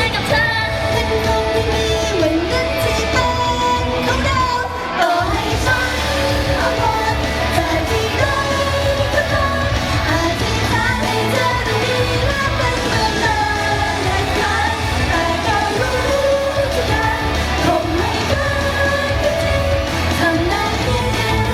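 Pop song performed live: singing over a loud backing track with heavy bass. The music breaks off for a moment about five seconds in.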